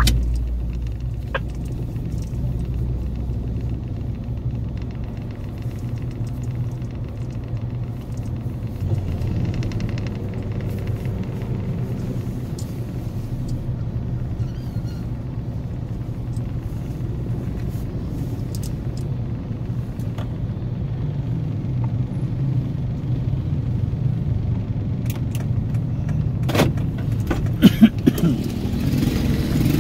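Vehicle engine idling with a steady low rumble, heard from inside a stopped car. A few sharp knocks near the end.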